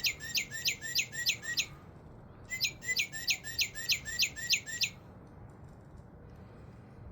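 Recorded northern cardinal song played from a Wild Republic Audubon cardinal plush toy's sound button. It gives two phrases of rapid, repeated downward-slurred whistles, about four or five a second, with a short pause between them, and falls quiet about five seconds in.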